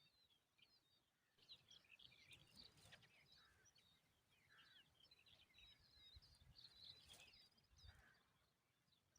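Faint, rapid high-pitched chirping of small birds, many short notes overlapping, with a couple of soft knocks about three and seven seconds in.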